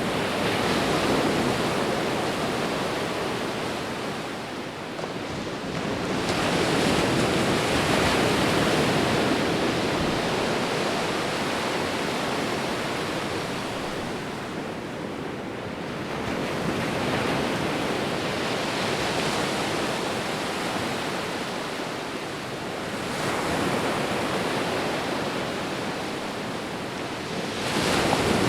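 Sea waves breaking and washing on a shore in slow, repeated surges, each swell building over a couple of seconds and easing off, about every five to ten seconds.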